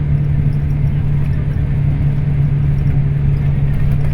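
Scania K340IB bus engine running with a steady low drone that holds one pitch, over road rumble.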